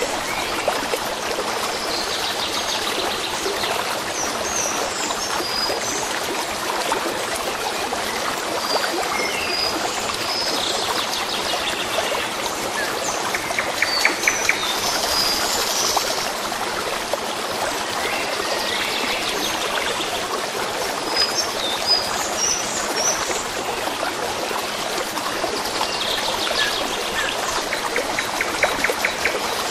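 A stream babbling steadily, with small birds chirping and trilling over it at intervals.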